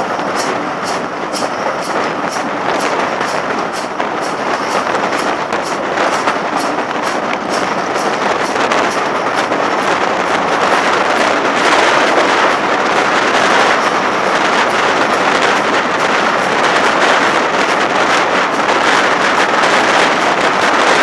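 Heritage train carriages running along the line, heard from an open carriage window: a steady rush of wheels on rails and passing air, with a regular light clicking about three times a second over the first several seconds that merges into a louder, even rush.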